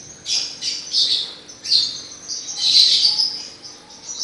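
Small birds chirping in short, irregular bursts of high twittering, the longest a little under three seconds in.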